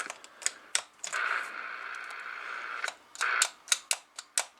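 Repeated sharp clicks of CB radio switches and the push-to-talk key being worked, with bursts of static hiss from a radio speaker: one lasting about two seconds in the middle and a brief one shortly after.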